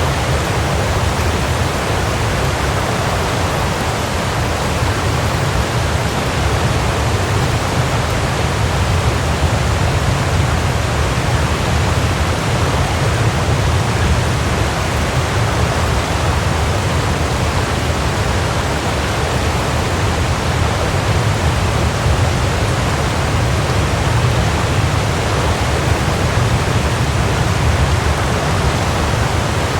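Waterfall: water falling and churning in a steady, unbroken rush with a deep rumble underneath.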